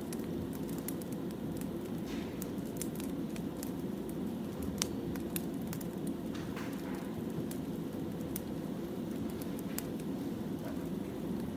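Wood fire burning, crackling steadily with frequent sharp, irregular pops and snaps over a low, even rush.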